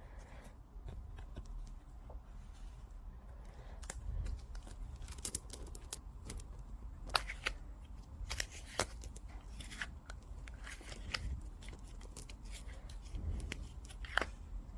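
Irregular sharp clicks and handling noises of small objects being worked by hand, over a low rumble.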